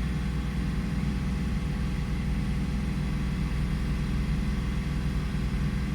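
2002 Toyota 4Runner engine idling steadily at around 740 rpm, a smooth, even hum with no stumble. It is running on all cylinders now that the erratic MAF sensor behind its start-stall fault has been dealt with.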